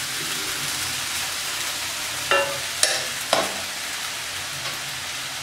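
Steady sizzle of peas, onions and mint paste frying in a kadai as steamed rice noodles are tipped in and stirred with a wooden spatula. Three short clacks of utensils against the pan come a little past halfway.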